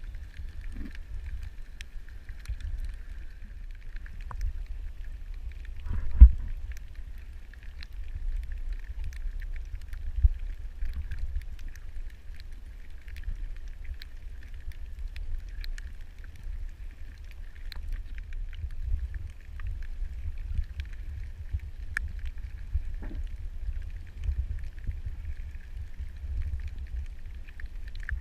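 Underwater recording: a steady low rumble of water against the camera housing, with faint scattered clicks and crackle, and one loud thump about six seconds in.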